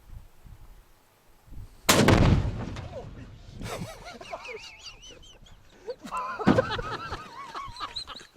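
One loud explosion about two seconds in, big enough to blow the roof off a truck, dying away in a long rumble. Whooping voices follow, and a second, smaller thud comes later on.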